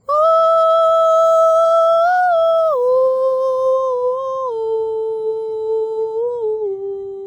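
A woman's voice toning: one long, hum-like sung note that starts suddenly and then steps down in pitch several times, a little lower every second or two.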